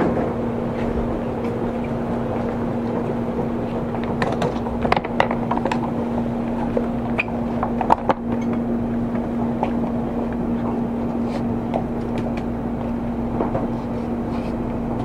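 Cabin running noise of a Seibu 30000 series electric train: a steady low rumble and hum with the air conditioning running, and a few sharp clicks about four to five seconds in and again around eight seconds.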